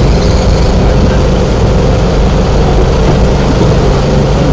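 A heavy engine running steadily, a loud continuous low rumble.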